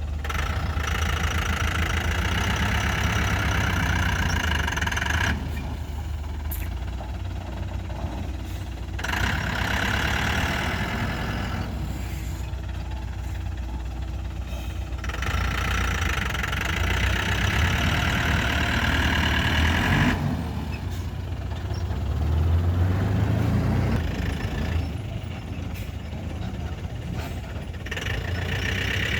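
Excavator's diesel engine running with a steady low rumble. A higher, harsher working sound rises over it for several seconds at a time, about four times, as the machine digs and loads sand.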